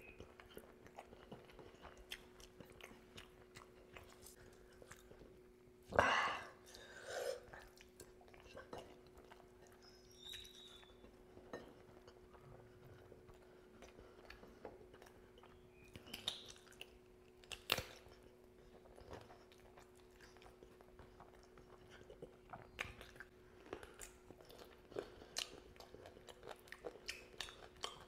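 Close-miked eating by hand: wet chewing and biting of chicken feet in curry with rice, with scattered small crunches and clicks. A louder burst comes about six seconds in, with another just after.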